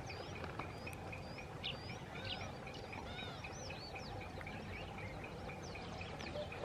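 Several birds calling: repeated short high chirps, each a quick up-and-down note, with a few longer arched calls in the middle, over a steady background hiss.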